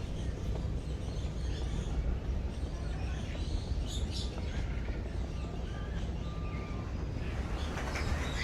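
Birds calling, with scattered chirps and two short, steady whistled notes, over a steady low rumble of background noise.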